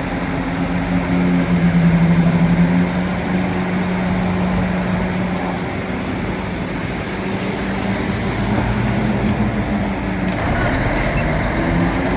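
A heavy machine's engine running steadily over a loud rumbling noise, briefly louder about two seconds in.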